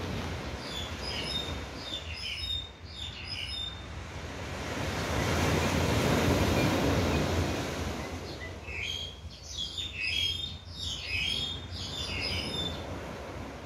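Birds chirping in quick runs of short, high calls, in two spells, over a steady low rumble of outdoor noise; in the middle, between the spells, a broad rush of noise swells and fades.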